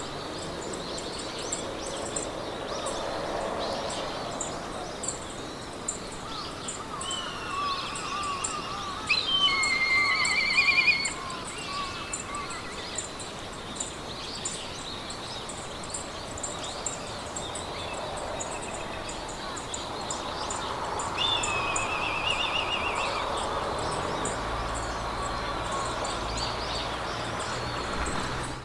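Wind blowing through meadow grass as a steady rushing, with songbirds singing warbling trills, loudest about a third of the way in and again past the middle. A fast, high, even ticking runs underneath.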